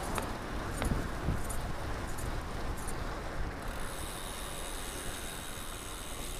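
Bicycle riding noise: tyre and wind rumble on an action camera's microphone as the bike rolls along a city street, with a thin steady high whine setting in about halfway through.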